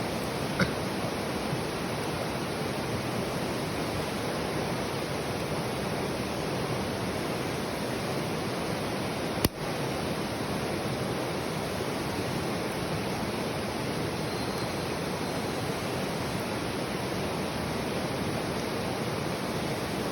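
Mountain river rushing steadily. A small sharp click comes about half a second in, and a louder one about halfway through.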